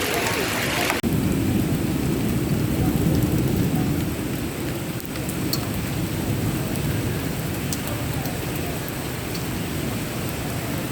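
Heavy rainstorm: steady rain noise with a deep rumble under it. About a second in the sound changes abruptly, losing its hiss and becoming a fuller low rumble.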